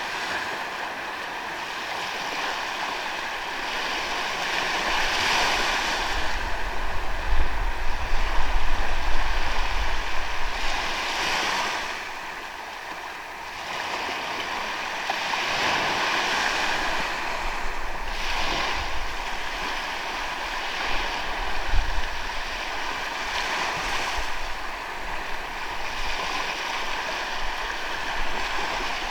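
Sea waves breaking and washing up on a sandy beach, swelling and easing every few seconds. Wind rumbles on the microphone, loudest about a third of the way in.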